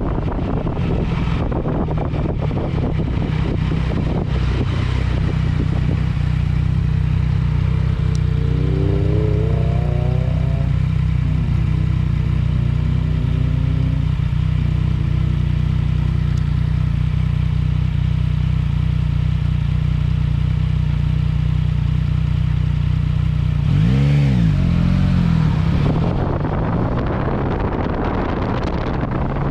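Yamaha MT-09 Tracer's inline three-cylinder engine running through an Akrapovic exhaust at steady cruising revs while riding, with wind noise on the microphone. About 24 seconds in the engine pitch briefly rises and falls again.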